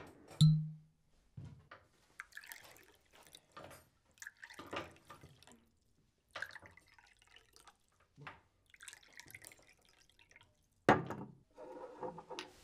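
Liquid dripping and splashing in short scattered bursts, with a brief low knock about half a second in and a heavier thump near the end.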